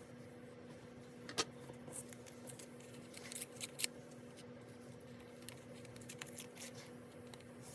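Crisp clicks and snips of paper and stationery being handled at a desk planner: one sharp click a little over a second in, a quick cluster of them around the middle, and a few lighter ones later, over a steady low hum.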